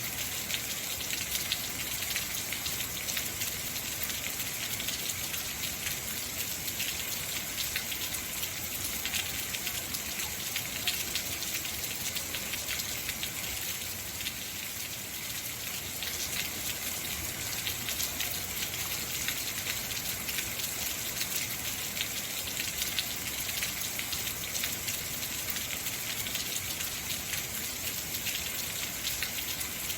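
Heavy rain falling steadily, a dense hiss of many drops pattering on surfaces.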